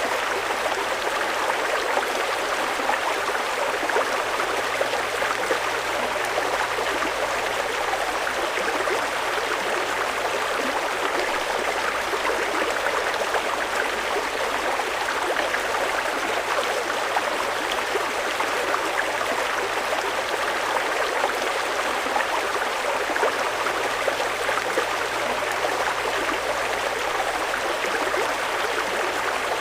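Fast-flowing river water rushing steadily over rocks, an even unbroken roar of running water.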